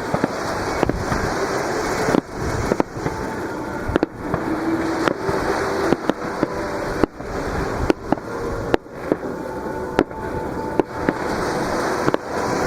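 Aerial fireworks bursting in a steady barrage, with sharp bangs about once a second over a continuous crackling rumble. Surf breaks on the beach underneath.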